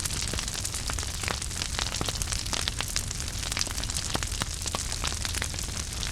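Wood fire burning in a fireplace: many sharp irregular crackles and pops over a steady low rumble of the flames.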